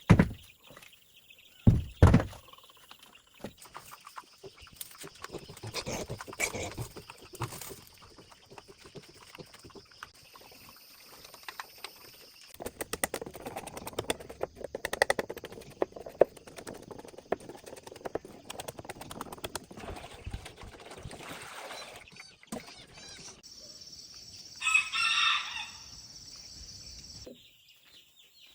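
A rooster crows once, for about a second, near the end. Earlier there are two loud thumps at the start and scattered knocking.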